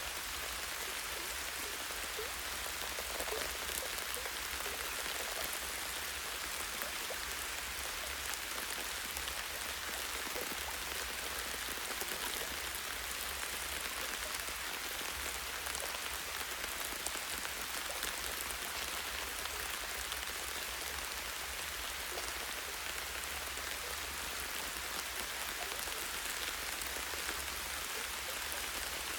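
Light rain falling steadily on trees and leaves in a forest, a soft even hiss with scattered small drop taps.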